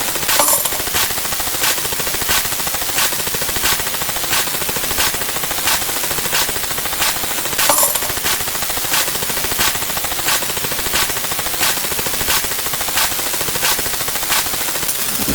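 A dense clatter of layered, rapidly retriggered sound effects, with sharp clicks about every 0.7 s and two brief high tones, near the start and about eight seconds in.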